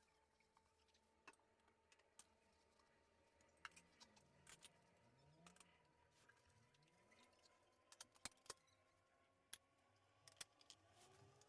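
Near silence with scattered faint clicks and taps, a few of them sharper around two-thirds of the way in, over a faint steady hum.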